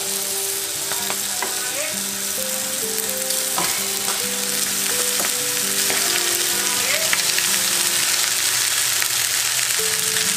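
Peas, capsicum and tomato masala sizzling in a hot kadhai while boiled fusilli pasta is tipped in on top: a steady, dense frying hiss.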